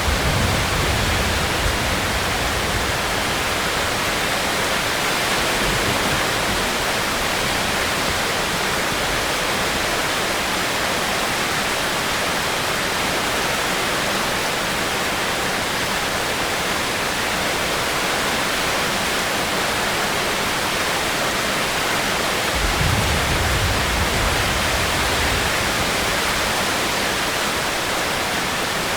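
Steady heavy rain, an even hiss with no let-up, with a low rumble at the start and another about twenty-three seconds in.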